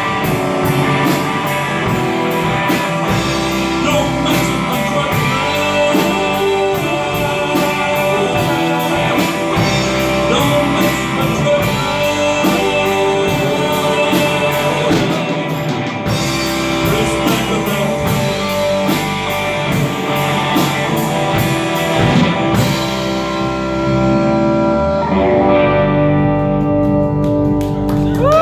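Live rock band playing an instrumental passage: guitar over drums keeping a steady beat. About 22 seconds in, the beat stops and the band holds ringing closing chords.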